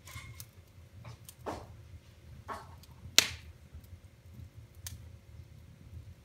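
Wood fire in a fireplace crackling: a few sharp pops over a low steady rumble, the loudest about three seconds in.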